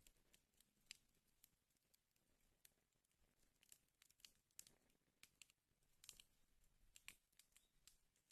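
Fire burning in a fireplace, crackling faintly with irregular small pops and snaps, a few sharper ones about a second in and again near six and seven seconds.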